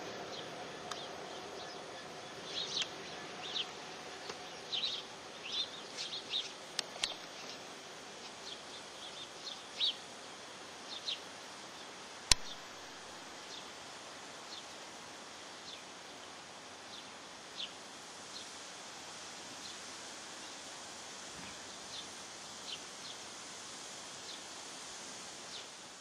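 Steady outdoor hiss with many short bird chirps, thickest in the first half and sparser later, and one sharp click about twelve seconds in.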